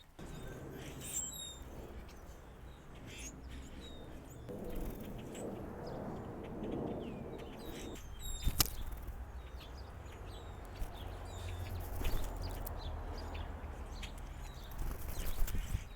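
Small backyard birds giving short, high chirps and call notes every second or so over a steady low background rumble. A sharp click comes about eight and a half seconds in.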